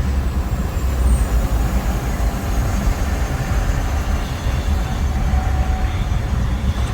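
A road vehicle on the move: a steady, loud low rumble of engine and road noise.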